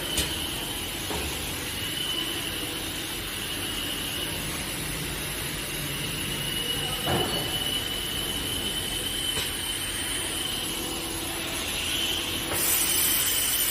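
Servo multi-point ultrasonic plastic welding machine running, a steady high-pitched whine over even machine noise. A louder high hiss comes in near the end.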